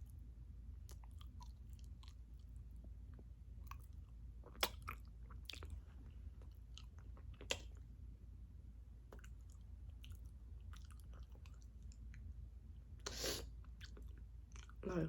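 Close-up chewing of a mouthful of a chicken-and-rice bowl, soft wet mouth clicks with a few sharper ticks. A brief louder noise comes near the end.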